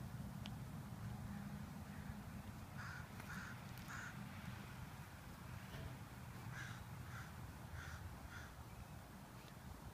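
A bird calling outdoors in two short series: three calls about three seconds in, then about four more a few seconds later, over a steady low rumble.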